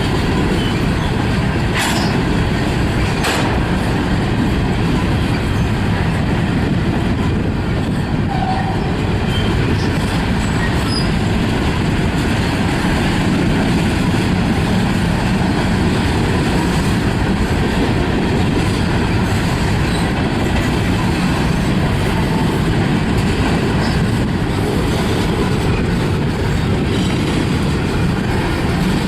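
Freight train cars rolling past close by: a steady, loud rumble of steel wheels on the rails, with two sharp clicks a few seconds in and now and then a faint wheel squeal.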